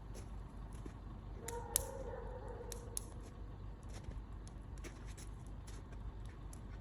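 Campfire crackling: irregular sharp pops and snaps over a low steady rumble, with a short high-pitched tone about a second and a half in.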